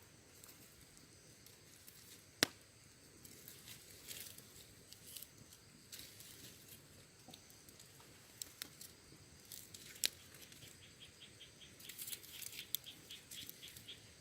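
Wood fire crackling quietly, with scattered sharp pops; two stand out, about two and a half seconds and ten seconds in. Near the end comes a quick run of small ticks.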